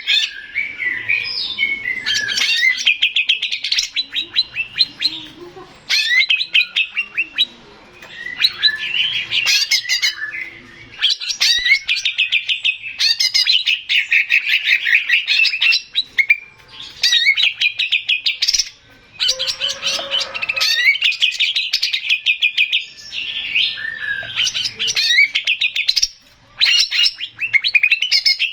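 Male green leafbird (cucak ijo) singing loudly. Its song runs in long phrases of rapid, repeated chattering and whistled notes, broken by brief pauses.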